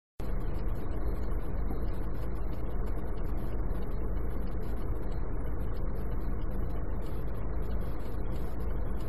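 Steady low rumble of a car idling at a standstill, heard inside the cabin through a dashcam's microphone; it cuts in abruptly right at the start.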